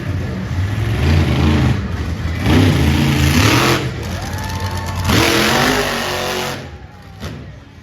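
Monster truck engines revving in repeated bursts, with two big rushes of power about two and a half and five seconds in, then dropping back near the end.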